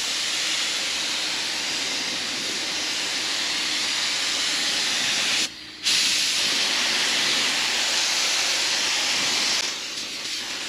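A steady loud hiss that breaks off briefly about five and a half seconds in, then resumes and eases near the end.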